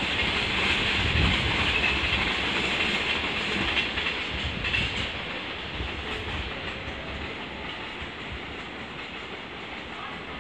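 A train running along the tracks with a steady rushing rail noise, gradually fading over the second half.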